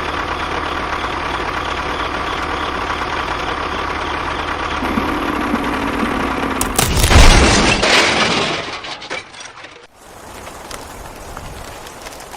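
A machine running steadily, then a loud crash with a low rumble about seven seconds in. The sound drops to a quieter steady noise from about ten seconds in.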